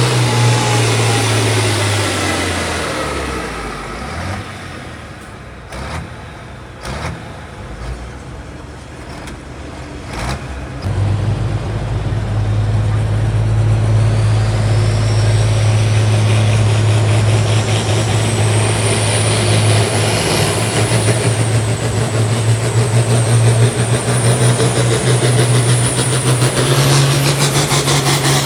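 Pulling tractor's engine running loud and dying away over the first few seconds, then a lull with a few sharp knocks. From about eleven seconds in, a tractor engine runs steadily again with a whine rising over it and steps up near the end.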